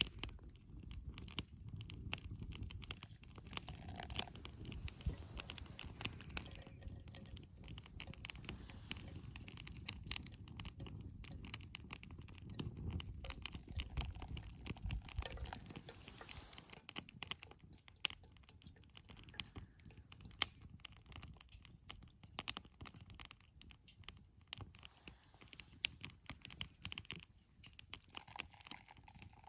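Wood campfire crackling, with irregular sharp pops and snaps over a low rumble that eases after about sixteen seconds.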